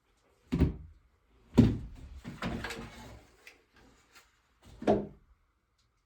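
Knocks and thuds of wood being handled, three sharp ones with a stretch of rattling and scraping after the second.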